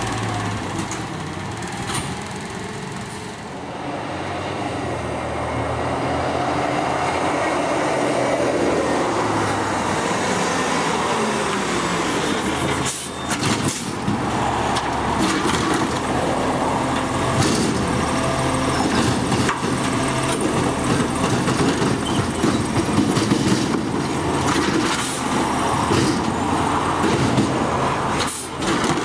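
Refuse truck running at work, its engine revving up and settling back under hydraulic load, with sharp knocks about halfway through and again near the end.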